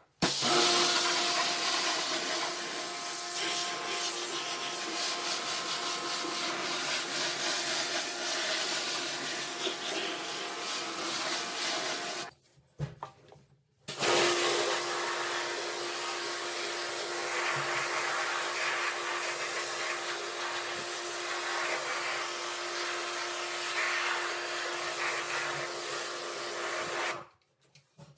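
High-pressure washer running and spraying: a steady motor hum under a loud hiss of spray. It runs in two long stretches, broken by a short gap about halfway through.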